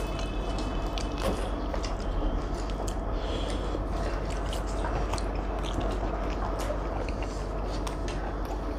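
Close-miked chewing and biting of roti and chilli chicken eaten by hand, a run of many small mouth clicks under a steady low hum.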